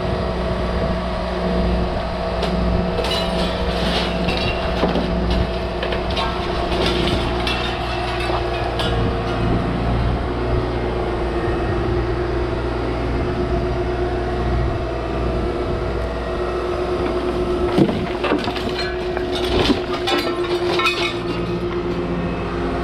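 Volvo ECR145 DL excavator's diesel engine running steadily with a steady higher whine. Scattered knocks and crunches come in two spells, a few seconds in and again near the end.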